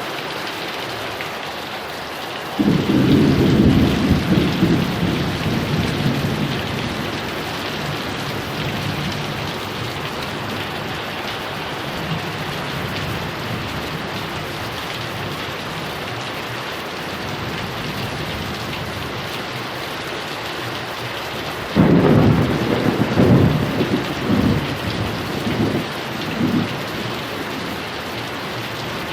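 Heavy rain falling steadily, with two rolls of thunder: one cracks in a few seconds in and rumbles away over several seconds, and a second breaks near the end in several pulses.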